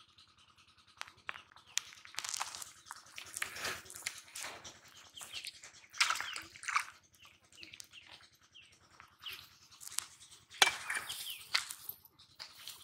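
Small birds chirping in quick, short, falling notes, with scattered sharp taps and rustles close by; the loudest tap comes about ten and a half seconds in.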